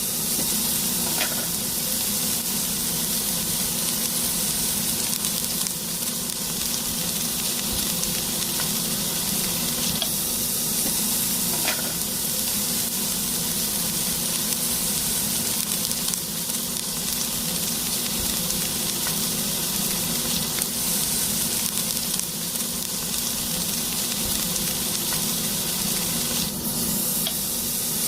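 Small garlic-chive and hot-chili batter pancakes frying in oil in a pan: a steady sizzle with a few small pops of spattering oil.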